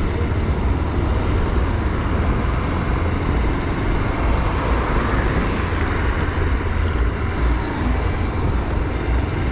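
Motorcycle running on the move, its engine under a steady rumble of wind on the microphone.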